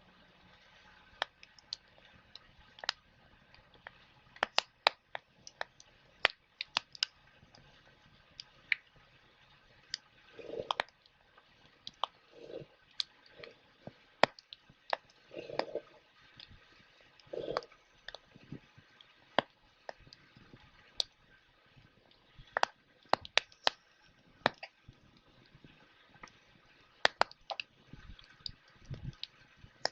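Wood fire crackling: irregular sharp pops and snaps, sometimes several in quick succession, with a few short duller puffs in the middle stretch.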